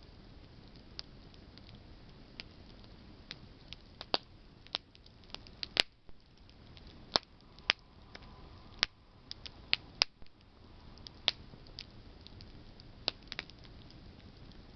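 Wood campfire burning, its branches crackling with about twenty irregular sharp pops, thickest in the middle, over a steady low rush of the fire.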